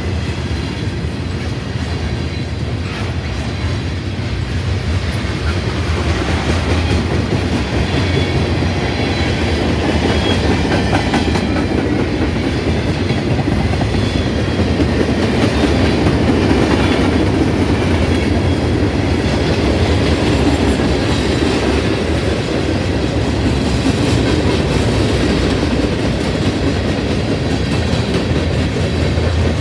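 Norfolk Southern freight train rolling past at close range: a steady, loud rumble of cars on the rails with wheel clatter over the track.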